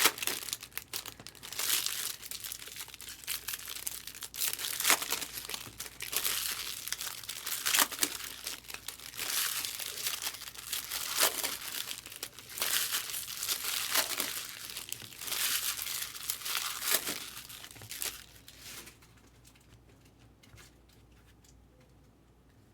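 Plastic trading-card packaging crinkling and tearing in hand, in irregular crackles and sharp snaps, stopping about three seconds before the end.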